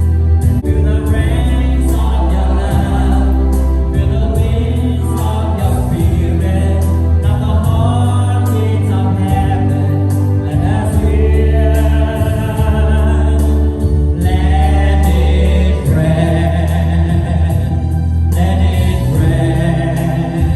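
Gospel choir singing a worship song over a band, with a strong steady bass and a regular drum beat.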